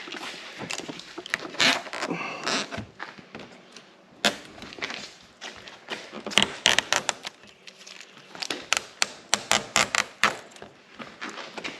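Hands handling a plastic hood protector and its adhesive tape backing: a string of irregular sharp clicks and taps, with a short rasping tear about two seconds in and a quicker run of clicks near the end.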